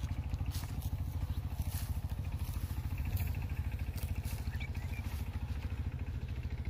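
A small engine running steadily with an even, fast low throb, as from a motorcycle travelling slowly.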